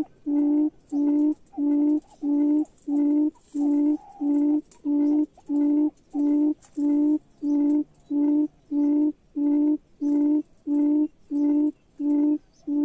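A bird's deep, hollow hooting call: a long steady series of identical low notes, about two a second, evenly spaced.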